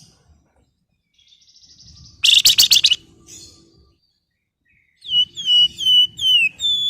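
Flamboyan songbird calling: a fast, loud rattling burst of notes a little over two seconds in, then from about five seconds a run of five or six clear whistled notes, each sliding down in pitch.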